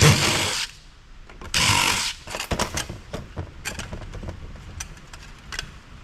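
Two short bursts of a handheld power driver, one at the start and one about a second and a half in, followed by scattered clicks and knocks of metal parts and screws being handled during teardown of the amplifier.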